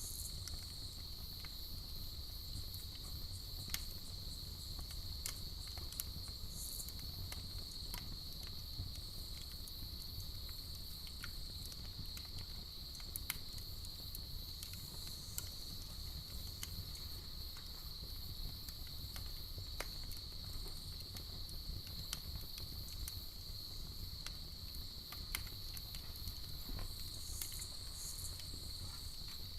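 Campfire crackling with scattered sharp pops, over a steady high-pitched trill of night insects.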